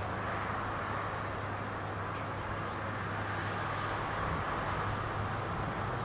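Rice harvesting machine's engine running steadily, a constant low hum under a steady whirring noise.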